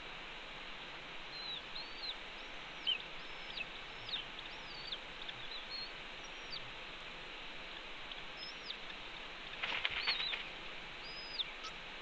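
A bird chirping in a string of short, high, arched notes, one every half second or so, over steady background hiss. About ten seconds in comes a brief, louder rustling scuffle.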